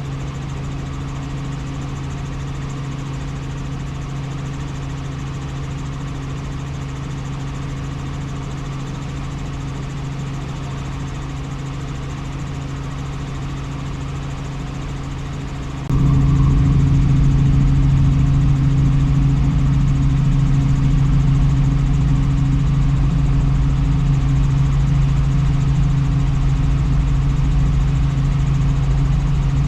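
Helicopter in flight: a steady engine and rotor drone with a low hum. About halfway through it suddenly gets louder, with much more deep rumble, and holds at that level.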